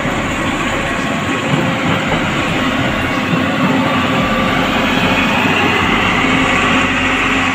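A motor vehicle's engine running steadily and loud, with a constant rumble.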